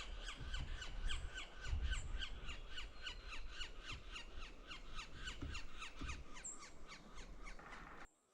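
A bird's long call: a series of short, sharp notes repeated evenly at about five a second, with a few low thumps under it. It cuts off suddenly near the end.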